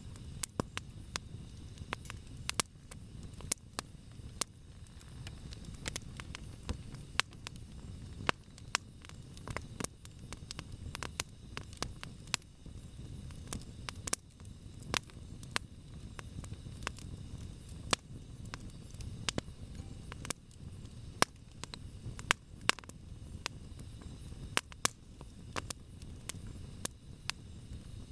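Campfire burning, the wood crackling in sharp, irregular snaps and pops over a low, steady rumble.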